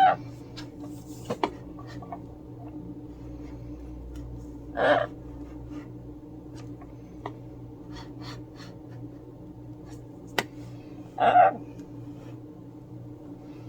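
A pet parrot giving three short calls a few seconds apart, over a steady low hum, with a couple of sharp clicks in between.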